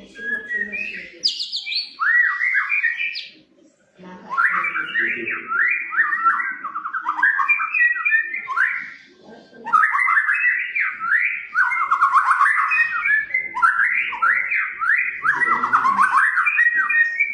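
White-rumped shama (murai batu) singing in full song: long runs of rapid, varied whistled and chattering phrases, broken by short pauses about three and a half and nine and a half seconds in.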